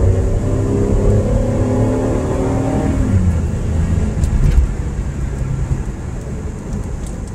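Car engine heard from inside the cabin, revving up as the car accelerates for about three seconds, then easing off into steady low road rumble.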